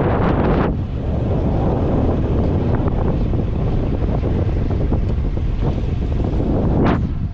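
Wind buffeting the microphone of a camera carried on a moving road bike: a steady loud rumble, with a brief louder gust near the end.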